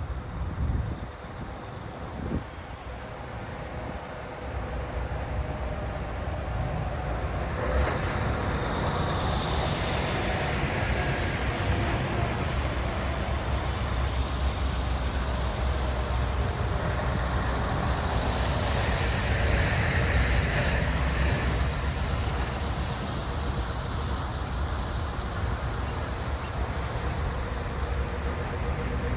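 Convoy of heavy trucks driving past, their diesel engines making a steady low rumble that grows louder about four seconds in. A brief hiss comes about eight seconds in.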